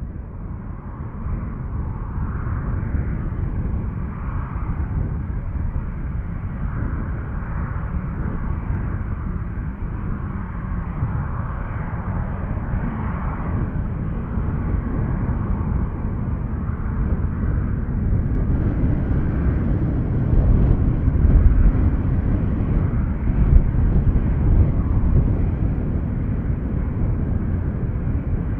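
Aircraft engine noise from an airliner on its landing approach, a steady deep rumble that slowly grows louder, loudest a little past the middle.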